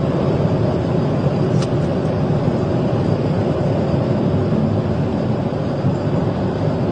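Steady, loud vehicle running noise with no breaks, its energy mostly low.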